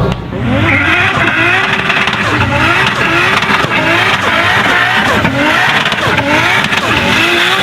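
A high-performance car engine revved in quick repeated blips, the pitch rising on each one, about one and a half a second, over a loud rasping exhaust.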